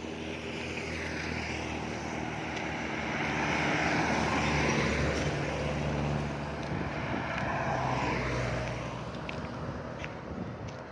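A motor vehicle's engine passing by, growing louder to a peak about four to five seconds in and fading away near the end.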